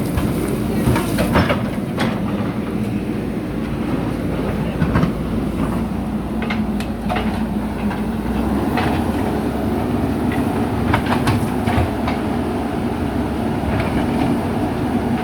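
Diesel engine of a JCB backhoe loader running steadily under load while digging, with a dozen or so sharp clanks and knocks scattered through.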